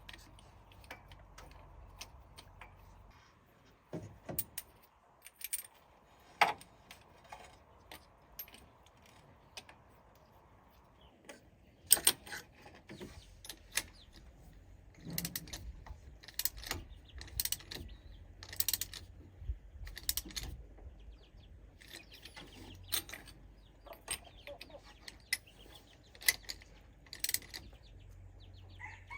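Irregular metallic clicks and clinks of hand tools and small metal parts being handled during engine repair work. A faint steady hum runs under the first third and then stops.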